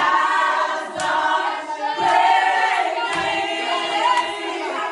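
A group of voices singing together, with a sharp beat about once a second.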